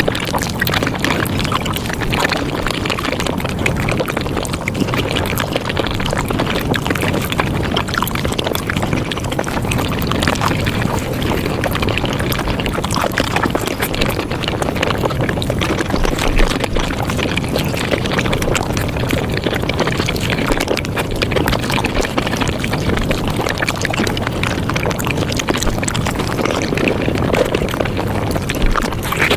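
Mukbang eating sounds of a Japanese fruit sandwich, played at five times speed so the bites and chewing run together into a steady, dense crackling noise.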